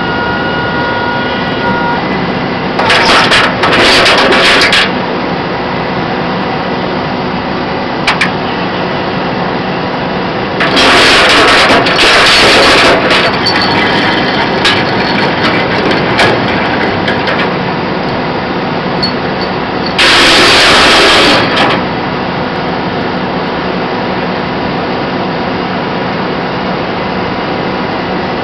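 Flatbed tow truck's diesel engine running steadily, with a whine in the first couple of seconds. Three loud bursts of rushing, hissing noise come over it: one near the start, one about eleven seconds in, and one about twenty seconds in.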